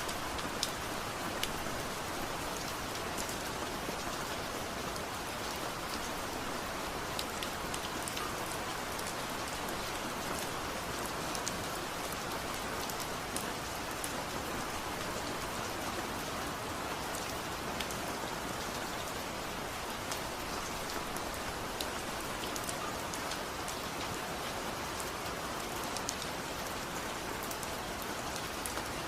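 Steady rain falling on a surface, an even hiss with scattered individual drop clicks.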